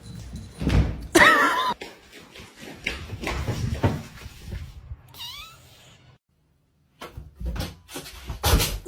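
A cat meowing: a loud wavering call a little over a second in and a shorter rising one about five seconds in, among knocks and bumps. The sound drops out completely for about a second near six seconds in.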